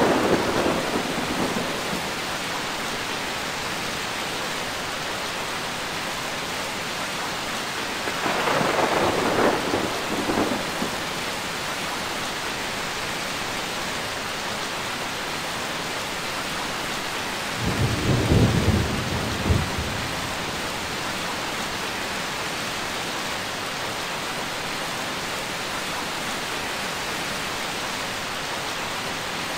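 Steady heavy rain with rolls of thunder. One roll fades out in the first couple of seconds, another rumbles about 8 seconds in, and a deeper, lower one comes about 18 seconds in.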